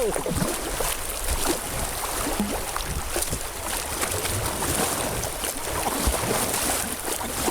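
Fast, flood-swollen river water rushing and splashing steadily around a kayak, with small scattered splashes.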